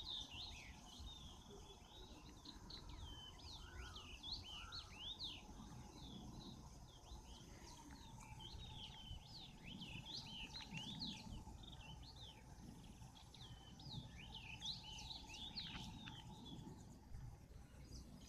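Birds chirping over and over, short rising and falling calls, over faint steady background noise with a faint steady tone underneath.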